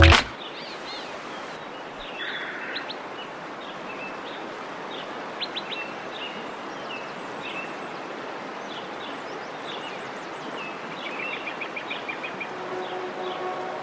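Small birds chirping and calling in short repeated notes over a steady rushing outdoor background noise. A steady low hum with an overtone joins near the end.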